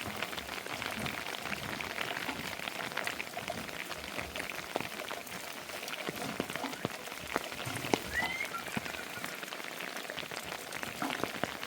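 Steady rain falling, with many small drop impacts pattering throughout. A short high chirp rises briefly about eight seconds in.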